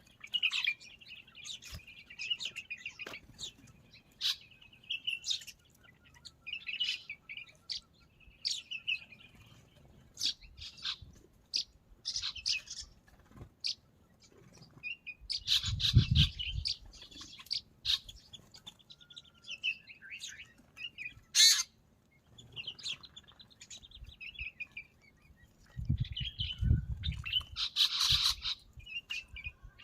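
Birds chirping and trilling in short repeated calls throughout. A low rumble comes twice, about halfway through and again near the end.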